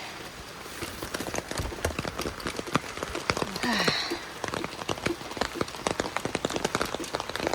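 Rain falling, with a dense, irregular patter of individual drops striking close by. A brief higher-pitched sound about halfway through.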